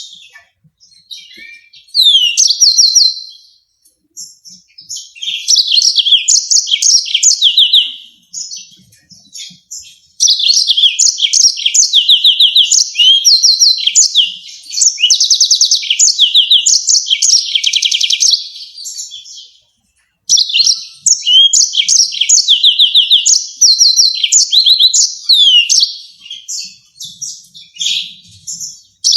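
Yellow-fronted canary singing loud, high trills: phrases of fast repeated notes, some rising or falling, broken by short pauses, with a longer break about a third of the way through.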